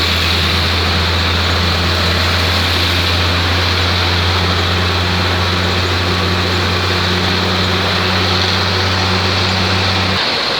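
Steady low engine drone and road noise heard from inside a moving bus, with an even hiss over a constant low hum. The hum cuts off abruptly about ten seconds in.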